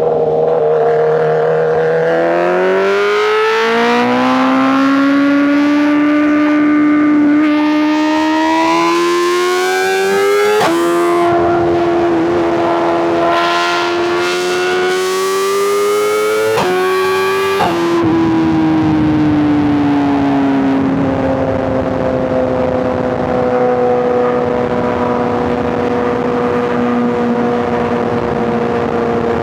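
Inline-four superbike engine and exhaust under hard acceleration, its pitch climbing steadily through the revs, with quick upshifts about a third of the way in and again a little past halfway. In the last ten seconds or so the pitch eases slowly downward as the throttle comes off.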